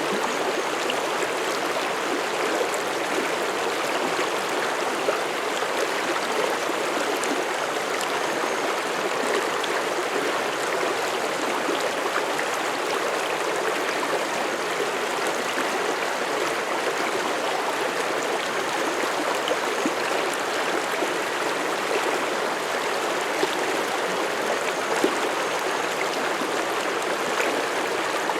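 Mountain stream flowing over rocks: a steady rush of running water with small splashes and gurgles.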